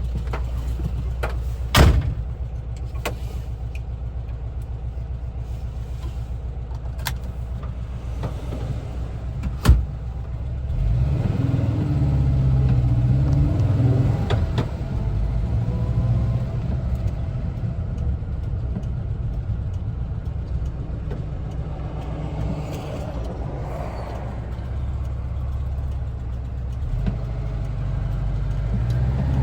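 Air-cooled flat-four engine of a 1974 Volkswagen Westfalia camper idling, with two sharp knocks about two and ten seconds in. Then the engine pulls away, louder, its revs rising and falling.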